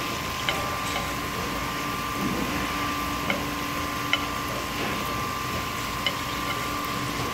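Yellowtail pieces and kuruma prawns sizzling in soy sauce and fish fat in a wide aluminium pan, with a metal spoon clinking against the pan about five times as the sauce is spooned over them. A steady hum sounds underneath.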